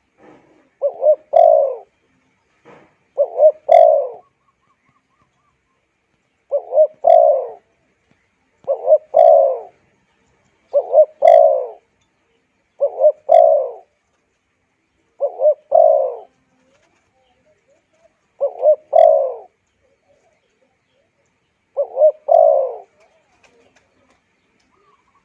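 Spotted dove (cu gáy) cooing: about nine phrases a couple of seconds apart, each a short note or two running into a longer coo, with full silence between phrases.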